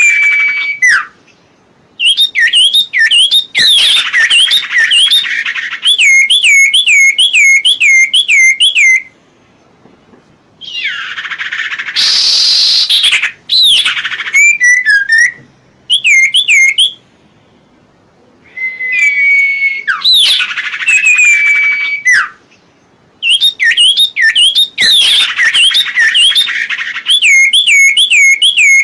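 Recorded song of a cipoh (common iora): phrases of quick, repeated looping whistled notes, several a second, broken by short pauses, with one harsh raspy call about twelve seconds in.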